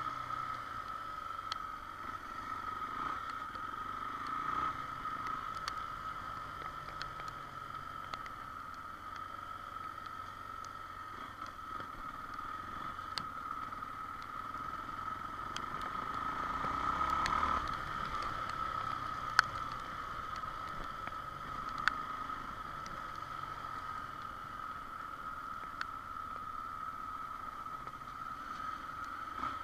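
Motorcycle riding along with steady engine, wind and road noise, a swell in level around the middle and a couple of sharp clicks.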